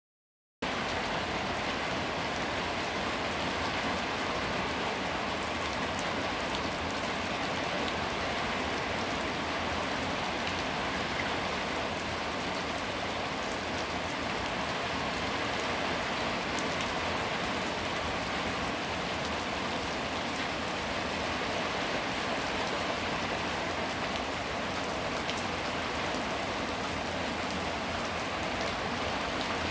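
Steady heavy rain falling, a dense even hiss with scattered sharp ticks of individual drops striking a surface. It starts abruptly about half a second in.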